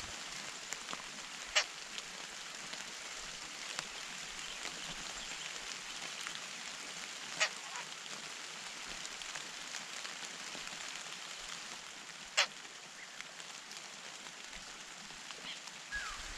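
Three short, harsh bird calls about five seconds apart over a steady hiss, with a faint call near the end.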